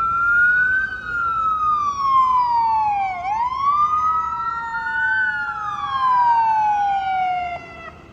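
Emergency vehicle siren wailing, rising and falling twice, with a second siren tone slowly falling underneath. Both cut off suddenly near the end.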